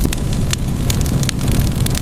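Wood fire crackling in a fireplace: scattered sharp pops and snaps, a few each second, over a steady low rumble.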